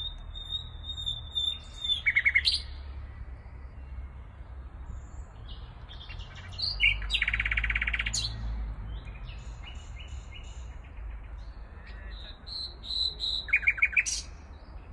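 Songbirds singing: one high held note at the start, then several quick trills, the loudest about seven seconds in. A steady low rumble runs underneath.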